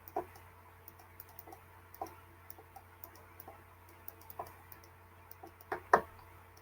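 Irregular light clicks and taps, about two a second, with two louder clicks close together near the end, over a faint steady low hum.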